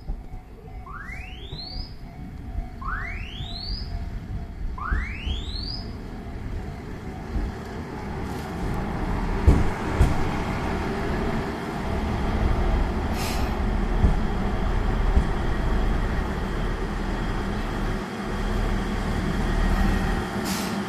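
Station train-approach warning tone, a rising electronic sweep repeating every two seconds, which stops about six seconds in. A KiHa 110 series diesel railcar then pulls in, its engine and wheels rumbling louder, with a few sharp clicks.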